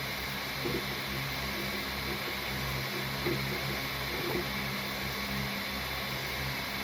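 Steady mechanical hum of a small motor or fan, with a few faint soft taps.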